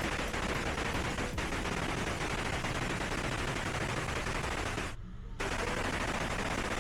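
Waterfall rushing, a loud continuous roar of falling water that drops out briefly about five seconds in.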